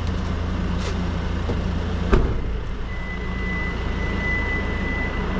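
Steady low rumble of a motor vehicle, a single sharp knock about two seconds in, then a steady high-pitched electronic tone starting about a second later.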